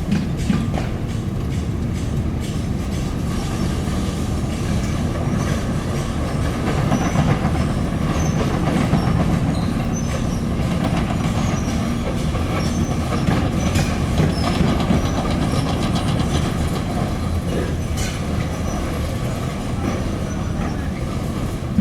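Heavy construction machinery working: a diesel engine runs steadily, with scattered metallic clanks and knocks and a few faint, brief squeaks.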